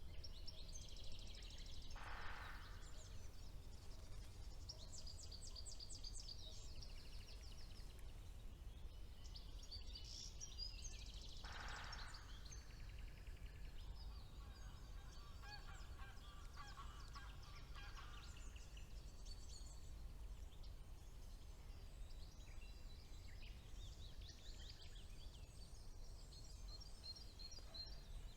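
Several songbirds singing at once, with overlapping high trills and chirps. Twice, about two seconds in and again near the middle, a short lower call cuts in. A faint steady low rumble runs underneath.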